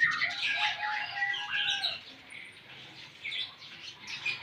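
Small songbirds chirping and calling in quick, sliding notes. The calls are busiest in the first two seconds, then turn fainter and more scattered.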